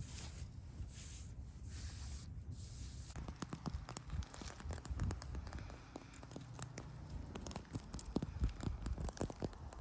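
Close-up scratching and crackling of dry forest debris, a low hiss that turns into busy, irregular small snaps and scrapes after about three seconds.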